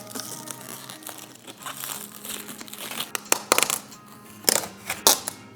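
Protective plastic film being peeled off an espresso machine and crumpled, crinkling, with a run of sharp crackles in the second half. Background music plays underneath.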